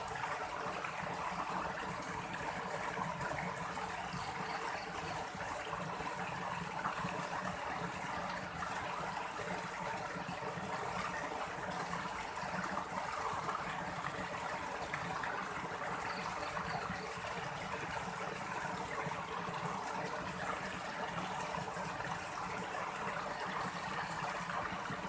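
Steady rushing and trickling of flowing stream water, an even, unbroken noise.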